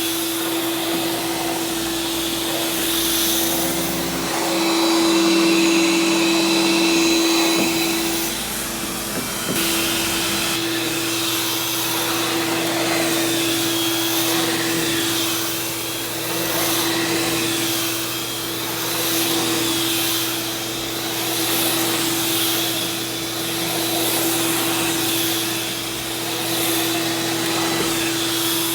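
Oreck vacuum cleaner running on carpet, pre-vacuuming dry soil before carpet cleaning. A steady motor whine over a rushing of air, its level swelling and fading about every three seconds.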